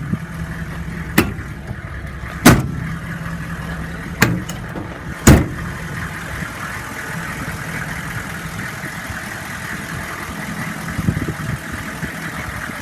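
Steel utility-bed compartment doors banging shut, about five sharp bangs in the first half and a few lighter knocks near the end, over the steady idle of the truck's 6.5-litre diesel engine.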